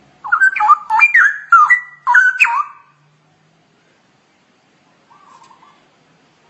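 Straw-headed bulbul (cucak rowo) singing: a loud phrase of whistled notes gliding up and down in four quick bursts over about two and a half seconds, then a faint short warble near the end.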